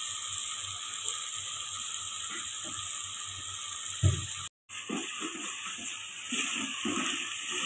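Chana dal frying in oil in a metal pot, sizzling steadily while a wooden spatula stirs and scrapes the lentils, with a sharp knock of the spatula against the pot about four seconds in and the sound cutting out for an instant just after. The dal is at the roasting (bhuna) stage, the oil separating from the spices.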